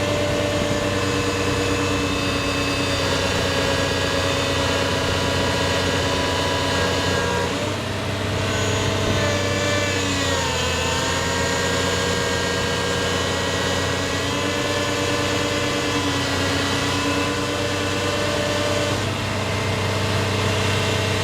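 Diesel engine of a Caterpillar 330DL excavator-based wick drain stitcher rig running steadily. Its pitch dips briefly about ten seconds in and then recovers.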